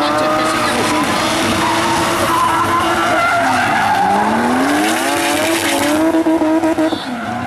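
Drift car's engine running hard at high revs, the pitch dipping and climbing again as the car is thrown through the slalom, over the hiss and squeal of tyres skidding sideways on tarmac. Near the end the sound cuts in and out briefly several times.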